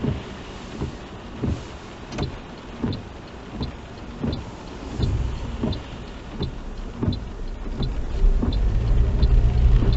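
Car's turn-signal indicator ticking evenly in the cabin, about one and a half ticks a second. From about eight seconds in, the engine note rises and grows louder as the car pulls away.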